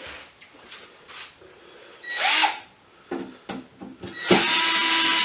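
Electric drill running in two short bursts. The first, about two seconds in, is a brief spin-up and wind-down; the second, near the end, is a steadier run of about a second.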